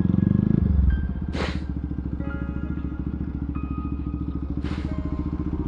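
Bajaj Pulsar NS200's single-cylinder engine through an aftermarket Akrapovic exhaust, loud for about the first second, then dropping to a steadier, quieter pulsing note as the throttle eases. There are two brief hissing rushes of noise, one about a second and a half in and one near the end.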